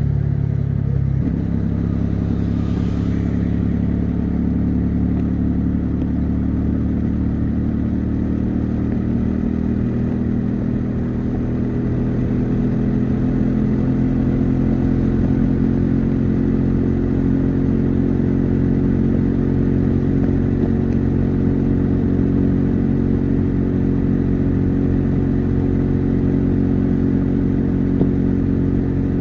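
Bajaj Dominar 400 single-cylinder motorcycle engine and exhaust cruising steadily at highway speed. The engine note shifts about a second in and climbs gently midway.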